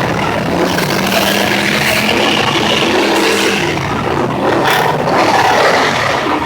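Muscle car engines revving together in a car show rev up, a loud continuous din with no break.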